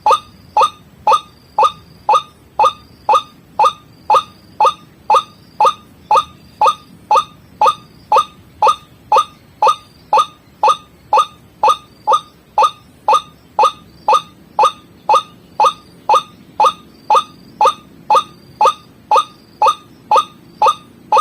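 White-breasted waterhen (ruak-ruak) call played as a bird lure: a steady, monotonous series of short calls, about two a second, each note dropping slightly in pitch.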